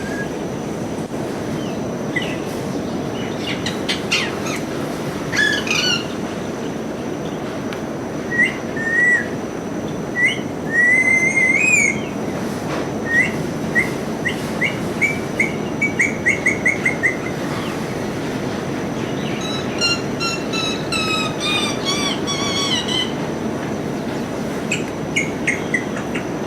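Parrot whistling and chirping in scattered bursts: rising whistled notes, a quick run of short repeated notes around the middle, and a burst of chirps with many overtones later on, over a steady background noise.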